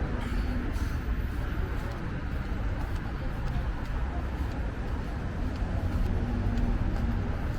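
City street ambience at night: a steady rumble of passing road traffic with faint voices mixed in.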